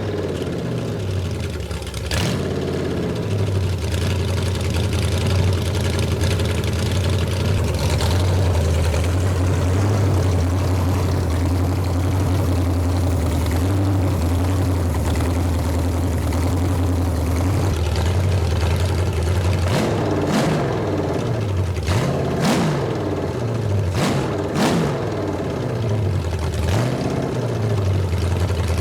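Ford 429 ThunderJet big-block V8 running on an engine stand at a fast idle, unable to idle down because of a faulty carburetor. In the last third it is revved up and back down several times.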